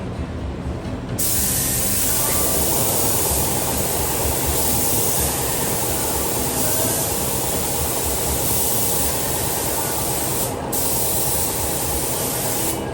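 Compressed-air paint spray gun hissing as it sprays epoxy sealer, switching on about a second in, pausing briefly near the end and then stopping. A steady hum runs underneath.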